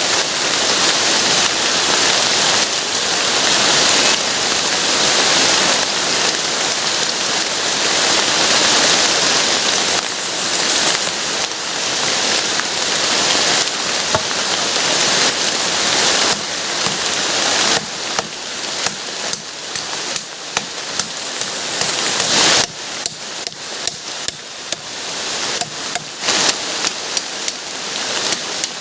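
Heavy rain falling steadily in a dense hiss; in the last third it thins and separate drops can be heard striking a surface.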